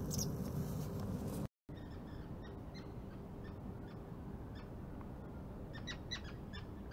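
Short, high bird calls repeated over a steady low background noise, with a quick cluster of louder calls near the end. The sound drops out for a moment about a second and a half in.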